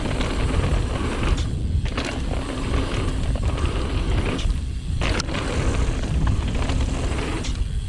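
Mountain bike riding fast down a dirt trail: wind rushing and rumbling on the microphone, tyre noise and scattered knocks and rattles as the bike goes over bumps.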